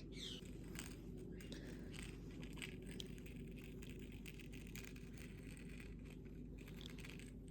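Faint scattered clicks and scratches over a low steady hum.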